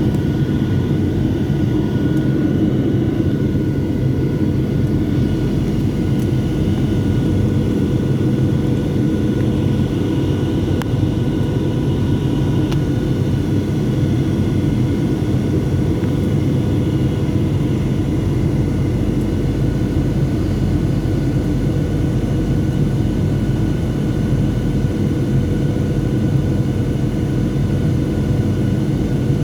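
Steady cabin rumble of a Boeing 737-700 in flight, its CFM56-7B turbofans holding a few steady whining tones above the low noise.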